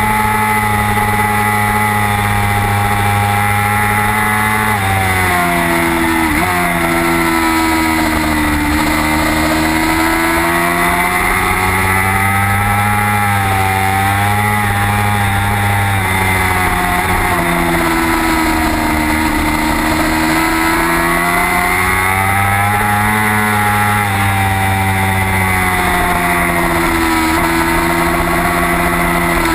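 Racing motorcycle engine heard from onboard at high revs, held flat out, then falling in stepped drops as it downshifts and slows for corners a few seconds in, again past the middle and near the end, and climbing back up each time it accelerates out.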